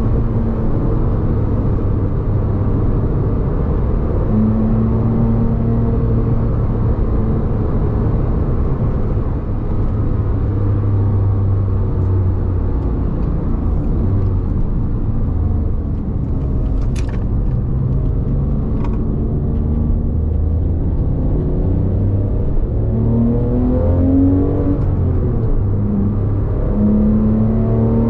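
Porsche 911 GT3's flat-six engine running under way with tyre and road noise, heard from inside the cabin; the engine note climbs a few times as it accelerates near the end. A single sharp click about halfway through.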